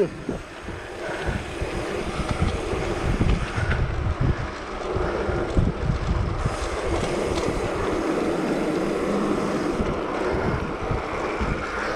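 Wind buffeting the microphone of a mountain bike riding into a strong headwind, as gusty low rumbling, over a steady rushing hiss of the ride.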